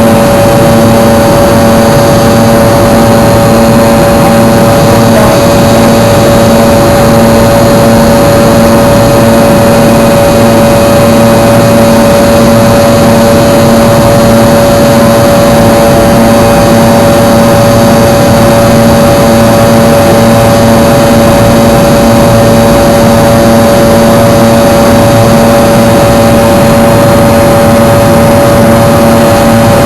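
Fokker 100's rear-mounted Rolls-Royce Tay turbofans heard inside the passenger cabin in flight: a loud, steady roar with a constant engine hum that does not change.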